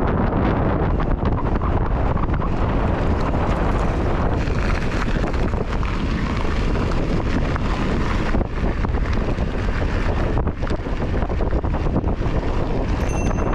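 Heavy wind buffeting the microphone of a chest-mounted GoPro on a moving mountain bike, a steady loud rumble, with a brief faint high tone near the end.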